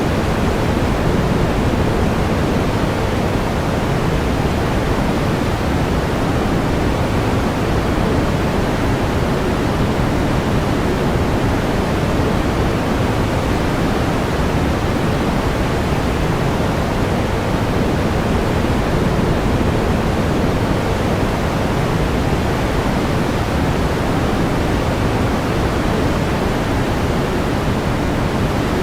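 Pink noise: a steady, even hiss with more weight in the low end, unchanging throughout.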